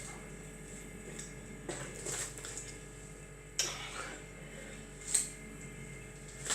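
A few short, quiet knocks and scrapes from handling a drink and its container, with one sharp knock about three and a half seconds in.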